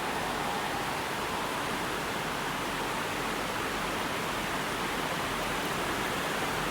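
Heavy rain coming down, a steady, even hiss.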